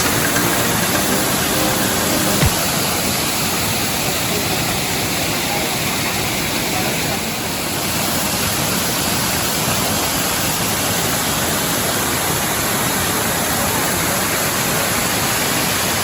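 Waterfall on the River Mellte: falling water making a steady, even rush.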